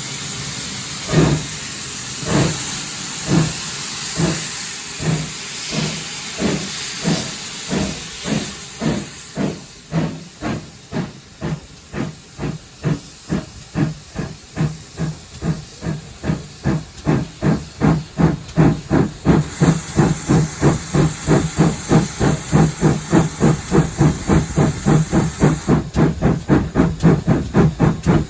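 Steam locomotive pulling away: a hiss of steam is heavy at first and eases, while the chuffs of the exhaust start about a second apart and quicken steadily to about four a second as it gathers speed.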